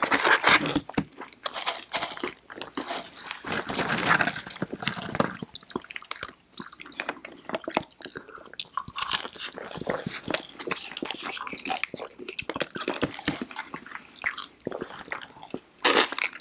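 Close-miked crunching bites and chewing of fried chicken fingers and crinkle-cut fries, an irregular run of crackles that keeps going throughout.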